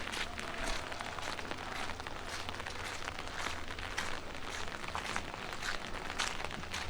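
Footsteps on wet pavement at a steady walking pace, about two crisp steps a second, over the light patter of rain.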